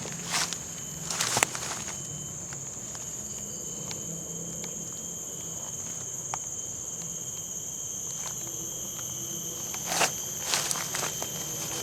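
Steady, high-pitched drone of rainforest insects, with a few brief crackling rustles near the start and again about ten seconds in.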